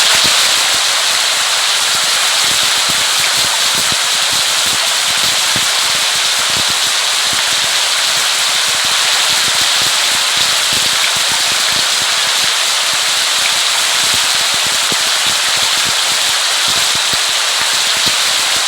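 Steady heavy rain: a dense, even hiss full of many small, sharp drop hits.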